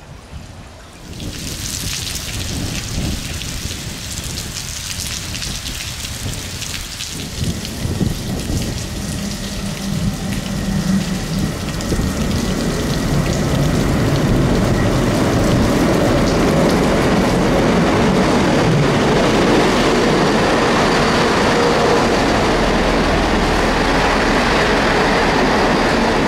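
Steady rain hiss, with a Class 158 diesel multiple unit approaching and running in alongside the platform; its rumble grows through the middle and holds steady and loud over the second half.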